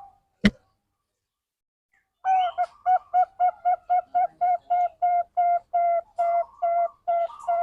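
Zebra dove (perkutut) cooing: a fast, even run of short pitched coo notes, about four a second, starting a couple of seconds in. A single sharp click comes about half a second in, before the cooing.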